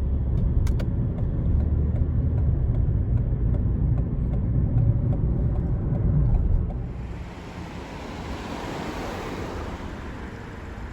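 A steady low rumble like a vehicle in motion, which drops about seven seconds in to a softer, higher hiss.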